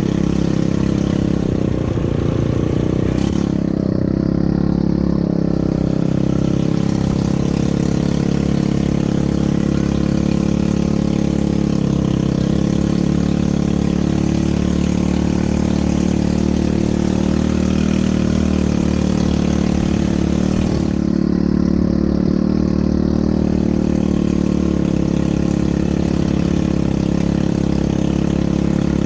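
ATV engine running steadily, with a constant pitch that changes little.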